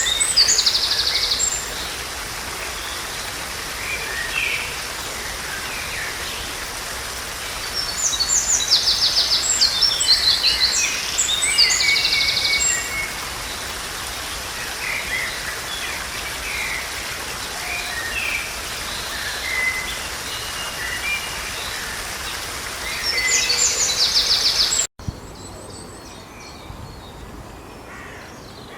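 Songbirds singing in bursts of fast, high trills over a steady rushing background noise. About 25 seconds in it cuts abruptly to a quieter scene with faint birdsong.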